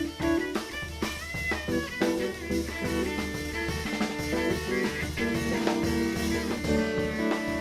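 Jazz trio of guitar, cello and drum kit playing. Busy drum strikes with rimshots under the guitar in the first part, giving way to held, sustained notes near the end.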